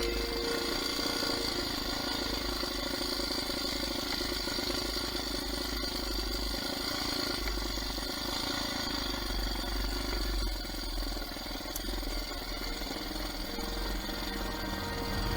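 Enduro motorcycle engine running steadily with a fast, even pulse.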